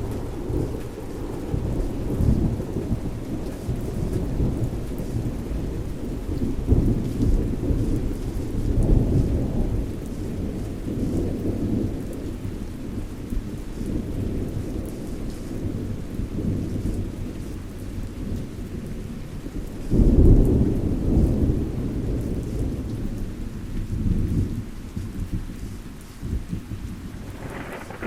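Thunderstorm: steady rain with low, rolling thunder that swells a few times, the loudest rumble breaking in suddenly about two-thirds of the way through.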